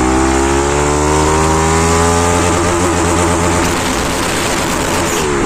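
Bajaj Pulsar NS200's single-cylinder engine, loud through an aftermarket exhaust with the dB killer removed. It revs up steadily for about two seconds, then runs with a wavering, uneven note, and dips just before the end.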